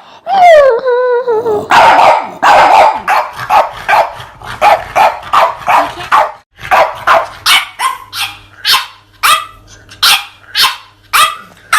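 Dogs barking in quick succession, about two to three barks a second, after a short falling, wavering whine near the start.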